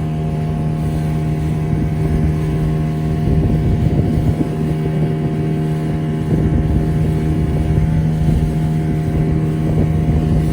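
A boat's engine running steadily at an even speed, with wind and water noise around it that swells and eases.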